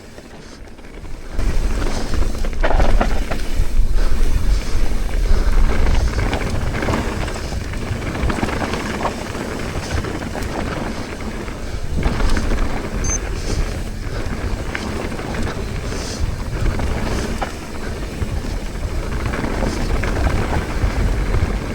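Mountain bike riding fast down a dirt trail: wind rushing over the camera microphone, with tyre noise and rattles from the bike over rough ground. It comes in loud about a second in and keeps on steadily.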